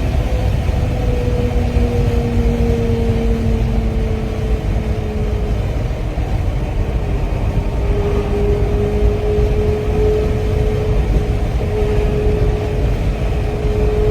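A vehicle engine running steadily at low speed over a constant deep rumble. Its tone eases slightly lower over the first several seconds, then holds.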